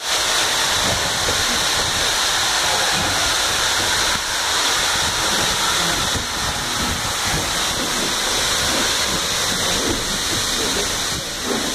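Passenger train running along the track, heard from an open carriage window: a steady rush of wind and wheel noise with a low rumble underneath.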